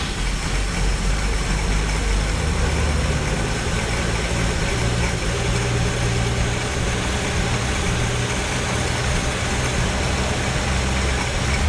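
Ford 200 cubic-inch inline-six engine running steadily at idle on its first start after a cylinder head rebuild and valve adjustment, with timing and carburettor set only roughly.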